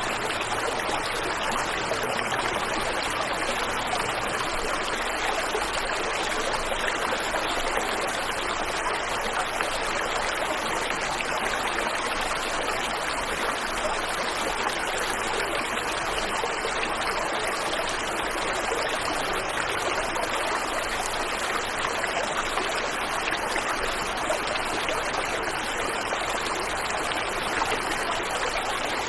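Waterfall and river water rushing in a steady, even stream.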